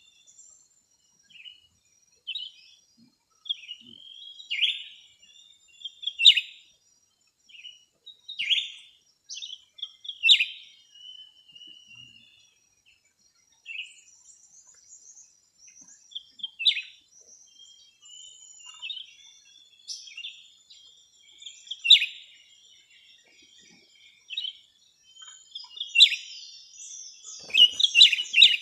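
Small birds chirping: short, sharp calls every second or two, with a quicker run of chirps near the end.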